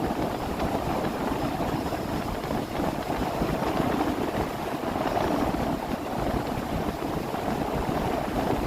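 A 30 ft boat under way on a lake: a steady rush of wind and water noise with no clear engine note.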